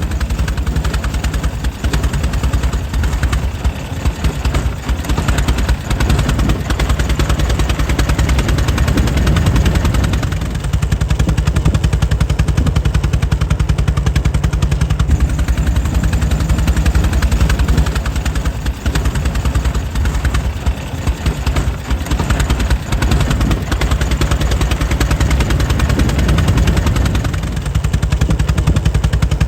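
Air-cooled 1904 Mitchell engine running steadily, a rapid, even, rhythmic stream of firing beats.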